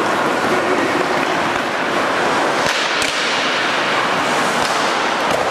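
Ice hockey play on the rink: skate blades scraping the ice over a steady hiss, with a few sharp clacks of sticks and puck around the middle.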